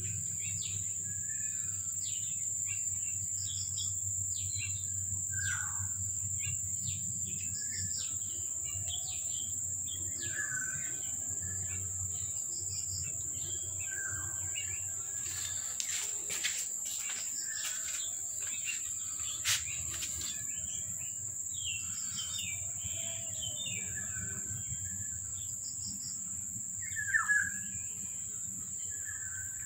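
Outdoor ambience: small birds chirping in short, repeated calls over a steady high-pitched drone. A few clicks come about halfway through, and a louder chirp comes near the end.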